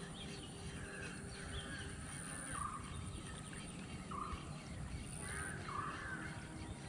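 A bird calling repeatedly, a short call about every second and a half, with fainter chirps between, over a low steady outdoor rumble.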